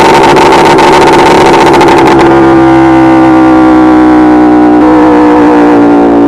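Simson SR2 moped's two-stroke engine running hard at high revs, loud and raspy; about two seconds in the throttle eases, the hiss drops and the revs sink slowly.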